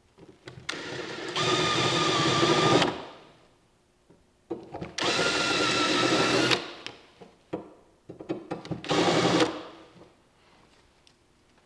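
A small power tool's motor running in three bursts, the first two about two seconds each and the last one shorter, with short pauses between them.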